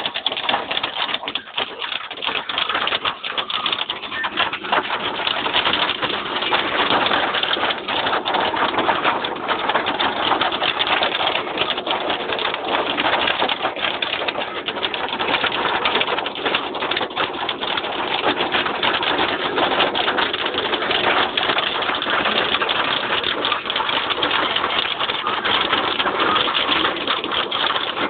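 A hailstorm: hailstones and heavy rain pelting down in a dense, continuous clatter of many small impacts. It grows a little louder a few seconds in.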